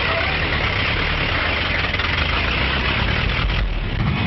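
An engine running steadily, with a constant low hum beneath a dense hiss.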